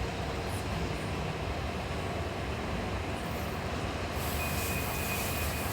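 Steady rumbling background noise, with a faint thin high tone entering near the end.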